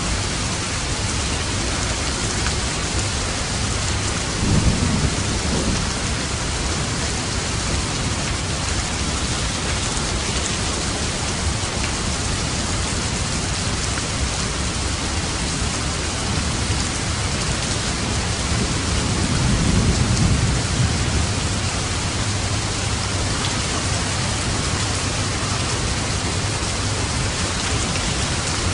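Steady heavy rain with two low rolls of thunder, one about five seconds in and a longer one about two-thirds of the way through.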